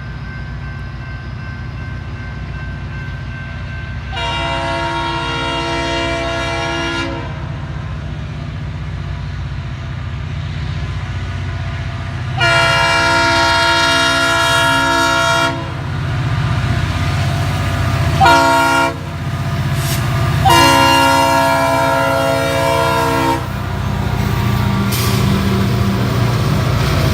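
Norfolk Southern diesel locomotive's air horn sounding the grade-crossing signal: two long blasts, a short one and a final long one, over the steady low rumble of the train.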